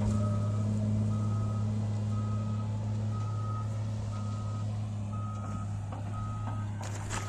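A heavy work vehicle's reversing alarm beeping about once a second, each beep about half a second long, over the steady drone of its running engine. A brief clatter comes just before the end.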